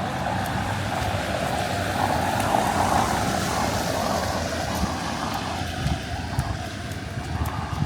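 Wet city street ambience: a vehicle passing, swelling to its loudest about two to three seconds in and then fading, over a steady low rumble.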